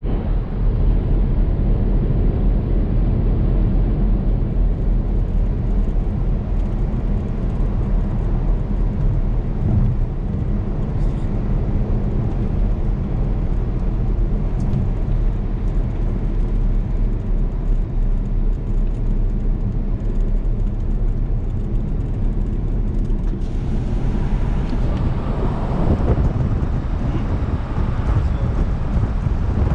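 Porsche Cayenne Turbo S twin-turbo V8 engine and exhaust running under way: a steady, loud low drone with engine tones. About 23 seconds in, a brighter rush of noise joins it.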